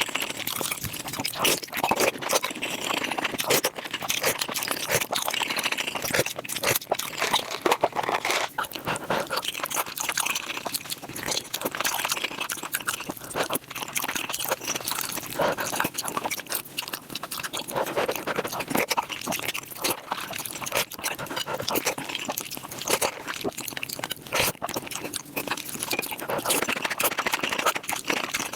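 Close-miked mukbang eating sounds sped up five times: a dense, rapid stream of chewing, smacking and crunching clicks.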